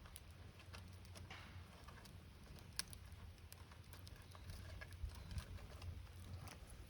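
Wood campfire crackling faintly, with scattered small pops and one sharper pop about three seconds in.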